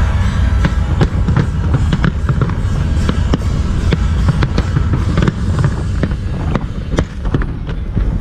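Fireworks display going off: a rapid, irregular run of sharp bangs and crackles over a continuous low booming rumble.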